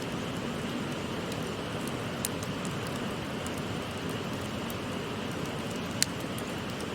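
Wood fire crackling with scattered sharp pops, the loudest about six seconds in, over the steady rushing of a shallow river.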